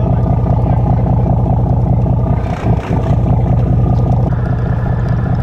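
Charter boat's engine running steadily with an even, low drone.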